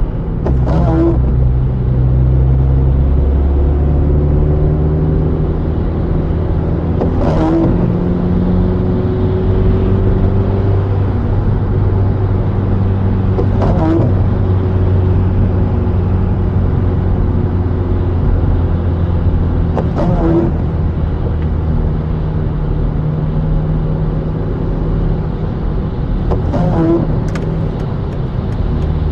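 Inside a car driving in the rain: steady engine and road rumble whose pitch shifts as the car speeds up and slows. Five times, about every six and a half seconds, a brief squeak and knock like windshield wipers on an intermittent setting sweeping the wet glass.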